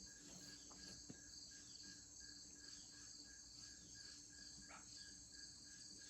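Faint evening insect chorus: crickets chirping in a steady, evenly repeating pulse.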